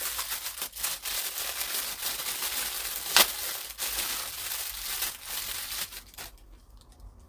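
Plastic packaging crinkling and rustling as it is handled and opened, with one sharp louder crackle about three seconds in. The crinkling stops a little after six seconds.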